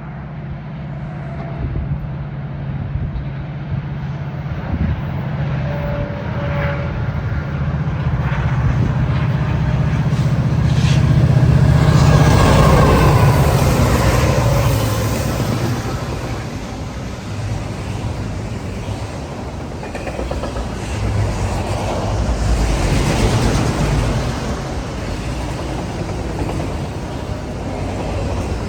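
Two EMD six-axle diesel-electric freight locomotives (an SD70ACU and an SD70ACE) passing, their engines' steady drone building to its loudest about twelve seconds in, followed by the rumble of autorack cars rolling by.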